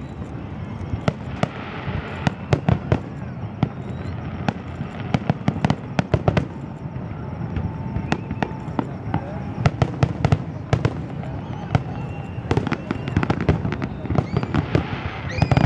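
Aerial fireworks shells bursting in quick succession, a string of sharp bangs and crackles that comes thickest near the end.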